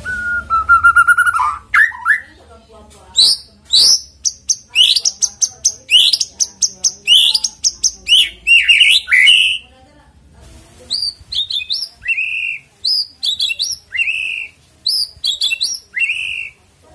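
White-rumped shama (murai batu) singing: a long whistled note, then a fast run of sharp chattering notes, then a short phrase ending in a downslurred note, repeated about once a second.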